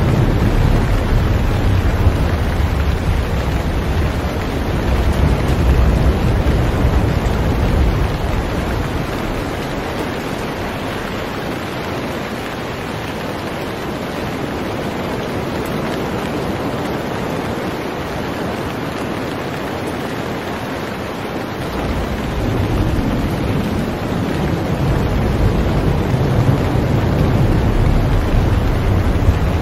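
Steady heavy rain with wind, a low rumble underneath that fades out about eight seconds in and returns about two-thirds of the way through.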